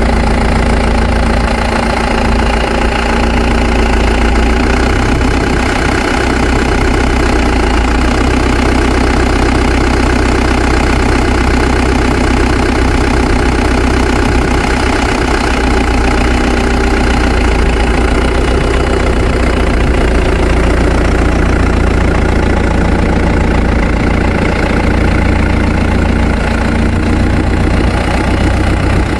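New Holland TN90F tractor's diesel engine running steadily at low revs, a small shift in pitch a few seconds in.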